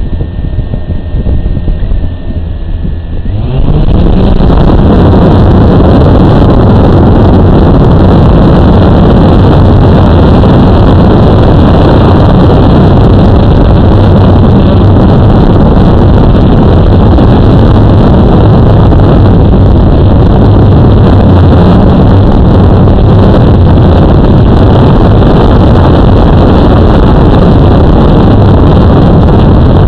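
Blade 350 QX quadcopter's four brushless motors and propellers spinning up about three and a half seconds in with a rising pitch, then a loud, steady buzzing drone in flight.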